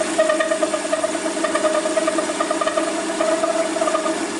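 Small metal lathe running with a steady motor hum while the tool takes a facing cut across the end of the work. A higher, pulsing tone from the cut sits over the hum and stops about four seconds in, while the motor keeps running.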